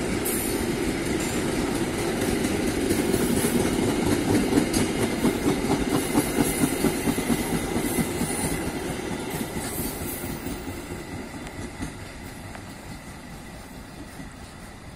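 Passenger train coaches rolling past on the rails, their wheels clacking rhythmically over the rail joints. The sound fades steadily from about halfway through as the last coach draws away.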